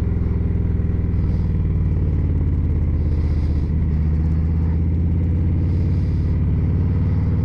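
Motorcycle engine running steadily while riding at cruising speed: a steady low drone, with a slight dip about three and a half seconds in.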